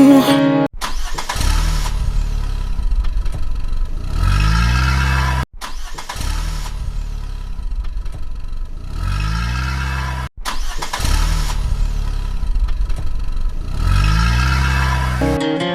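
A vehicle engine running and revving up in a rising glide. The same short sound clip plays three times, with brief silent breaks between.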